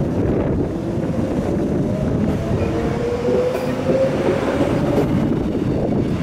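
Queensland Rail electric train running by on the track: a steady loud rumble of wheels on rail, with a faint whine that rises slightly in pitch in the middle.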